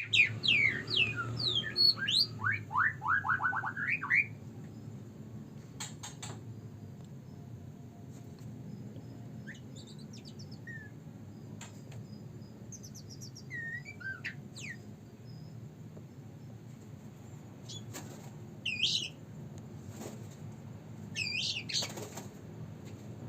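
Young white-rumped shama (murai batu) singing. It opens with a loud run of quick whistled notes and rapid trills for about four seconds, then gives softer scattered whistled phrases and chirps, with a few short clicks in between.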